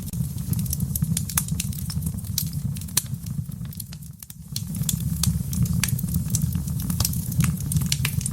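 Wood fire in a fireplace crackling, with frequent sharp pops and snaps over a steady low rumble. The crackling briefly thins out about four seconds in.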